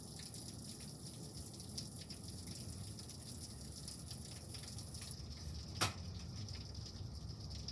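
Steady rain falling, with scattered drips and taps, and one sharp tick about six seconds in.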